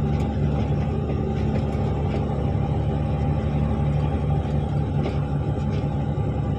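Articulated dump truck's diesel engine running steadily with a constant low drone.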